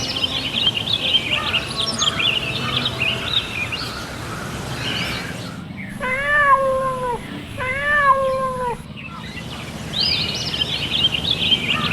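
Many small songbirds chirping and twittering. About six seconds in this gives way to two long, drawn-out cat meows one after the other, and the chirping returns near the end.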